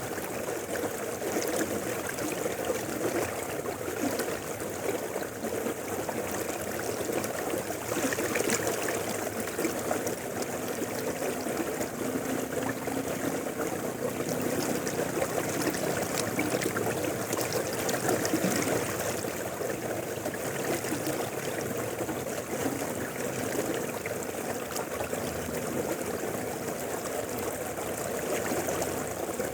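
A river flowing over rocks: a steady, continuous rush and babble of running water.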